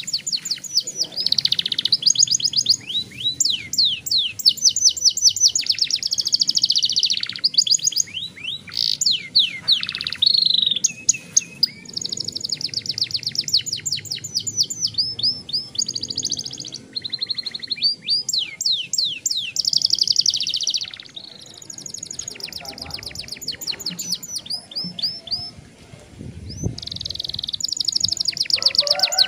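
Young domestic canary singing long rolling trills: fast runs of repeated high notes, phrase after phrase with short breaks, quieter for a few seconds about three-quarters of the way through.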